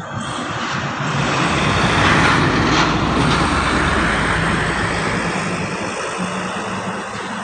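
Truck engine running hard with loud road and wind noise, swelling to a peak about two seconds in and then easing slightly.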